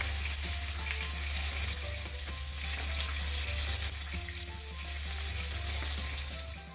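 Pancetta strips sizzling as they fry in a frying pan, a steady crackling hiss that fades away near the end.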